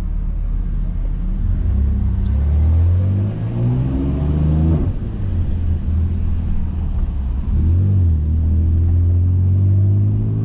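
BMW S55 twin-turbo inline-six running through catless downpipes, a single midpipe and a valved axle-back with the valves open, giving a deep exhaust drone. It rises in pitch for a couple of seconds as the car picks up speed, drops suddenly about halfway through, then settles into a steady low drone with a brief rise and fall near the end.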